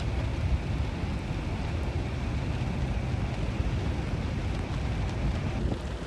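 A steady low rumble with a hiss over it, continuous and without distinct events.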